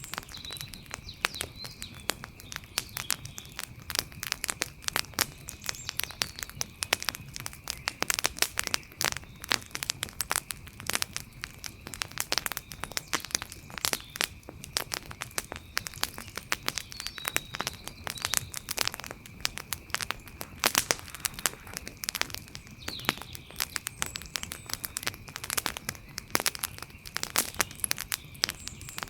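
Wood fire crackling, with frequent sharp pops and snaps of burning wood. A steady thin high-pitched tone runs under it, and a few short chirps come and go.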